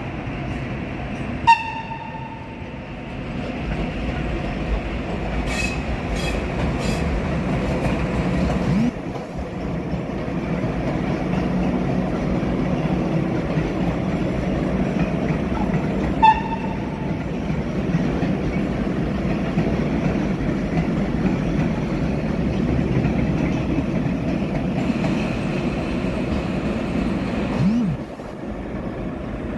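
A locomotive-hauled train running steadily through a station with a continuous rumble of wheels on rails and some clickety-clack. Two brief horn toots sound, one about a second and a half in and one about halfway through. A faint high squeal comes near the end before the sound drops off.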